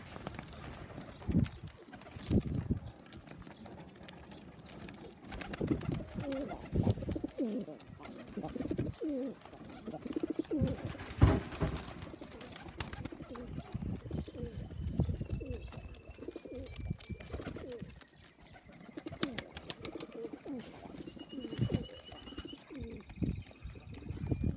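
Racing pigeons cooing in a loft, low repeated calls in two clusters, with scattered knocks and a sharp knock about eleven seconds in.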